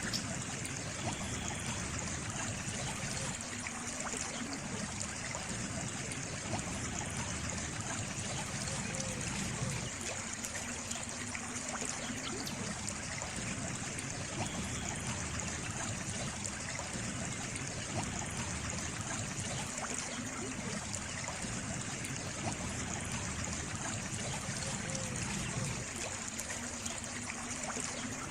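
Water trickling and running steadily, like a small stream.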